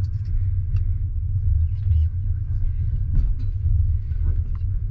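Steady low rumble of a double-deck passenger train running on the rails, heard from inside the coach, with a few faint knocks and rattles.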